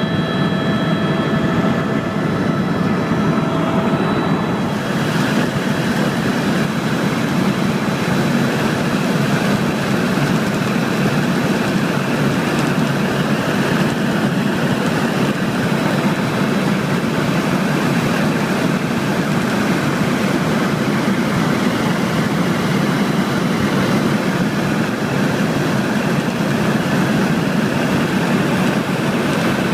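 Tour helicopter running steadily in flight. A few thin high tones fade out about four seconds in.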